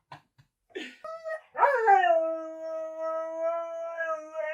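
Husky howling: a short call about a second in, then one long howl that swoops up and holds a steady pitch.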